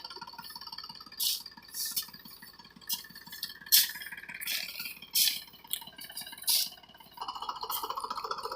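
Mahindra 275 DI tractor's diesel engine idling with a rattle, while about a dozen short sharp noises come and go. About seven seconds in, a louder, rapidly pulsing mid-pitched noise sets in and keeps on.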